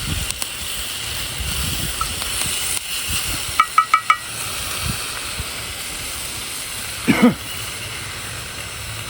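Lamb's quarters greens sizzling steadily in a cast iron pan over a campfire. About four seconds in there are four quick high pips, and a short falling call a little after seven seconds.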